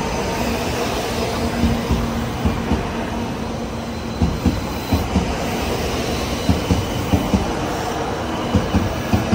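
Class 923 Doctor Yellow Shinkansen inspection train running past at close range: a steady rumble of the cars, with short thumps coming in quick pairs as the wheelsets cross rail joints.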